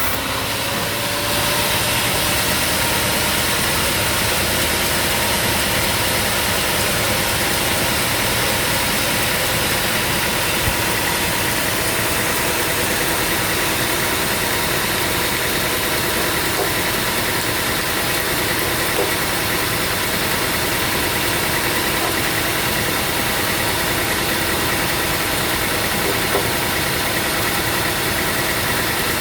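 Sawmill machinery running steadily, an even engine-like drone with a faint steady whine over it.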